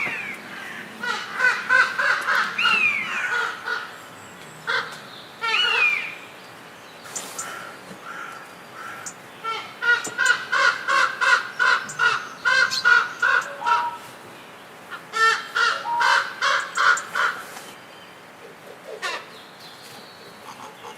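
A bird calling in runs of quick, harsh repeated notes, about four a second, broken by a few whistled calls that rise and fall.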